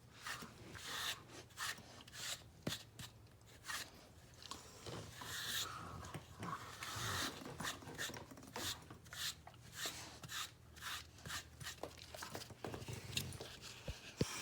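Brush raked through a shedding German Shepherd's thick coat: repeated rasping strokes, about one to two a second.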